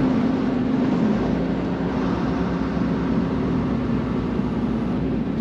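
Semi-truck running, heard from inside the cab: a steady engine drone with a constant low hum under road and cab noise.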